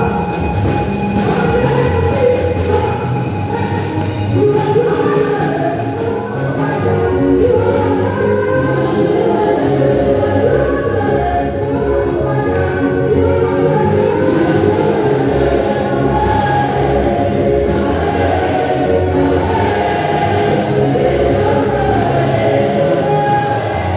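A choir or congregation singing a gospel song over a live band with bass and drums.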